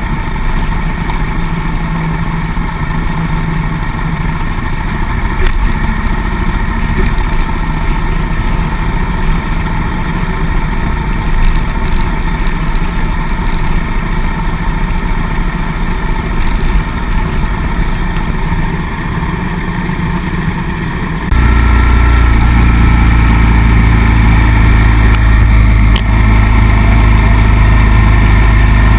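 Suzuki M800 V-twin cruiser motorcycle running on the road, a steady engine rumble with road noise. About two-thirds of the way in, the low rumble suddenly gets much louder and stays loud.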